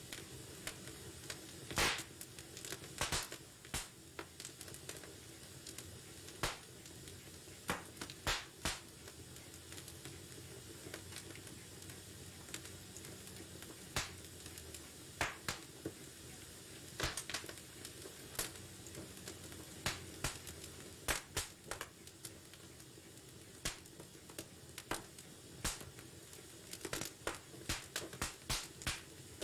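Wood fire crackling in a fireplace: irregular sharp snaps and pops, some in quick clusters, over a steady low hiss of the burning logs.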